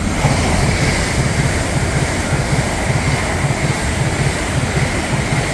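Two coupled Avanti West Coast Class 805 Hitachi bi-mode units passing through the station non-stop. It is a loud, steady rush of wheel and air noise with a rapid low beat from the wheels on the rails.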